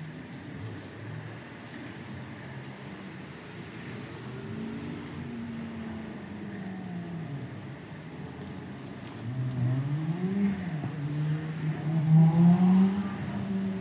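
A car engine off camera, its pitch rising and falling as it revs and pulls away, growing louder in the last few seconds.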